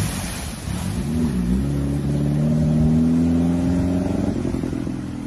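A car engine accelerating. Its pitch dips briefly about a second in, then rises steadily as it grows louder, and it fades away near the end.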